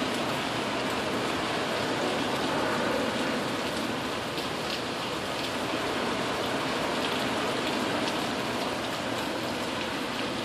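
Steady rain of a tropical storm, an even hiss with scattered drops ticking close by.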